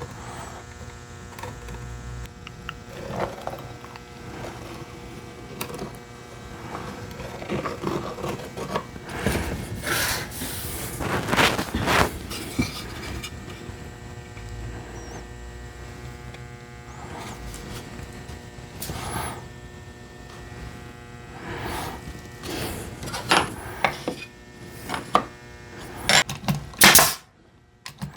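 Workshop handling sounds: irregular knocks, clatter and scrapes over a steady hum, with a cluster of sharper knocks near the end.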